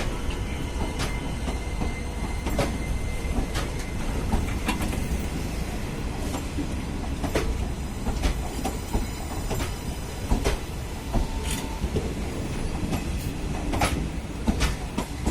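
Passenger train departing, its coach wheels rumbling steadily and clicking irregularly over rail joints and points.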